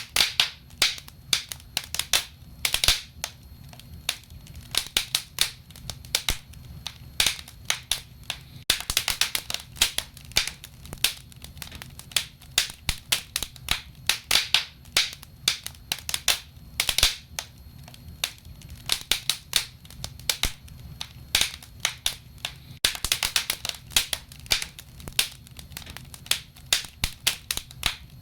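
Wood fire crackling in a stove or fireplace, with a dense, irregular run of sharp pops and snaps over a low steady rumble.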